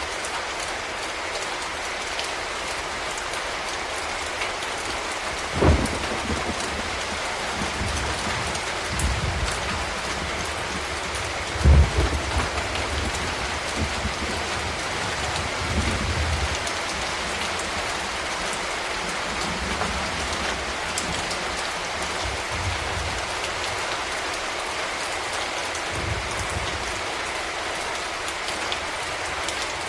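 Steady rain falling, an even hiss, with a few short low thuds, the loudest about six and twelve seconds in.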